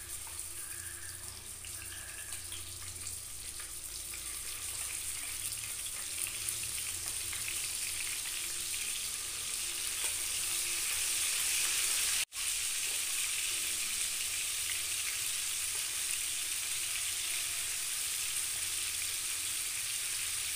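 Prawns sizzling as they shallow-fry in hot oil in a frying pan, getting louder over the first ten seconds as the pan fills with prawns. The sizzle breaks off for an instant about twelve seconds in.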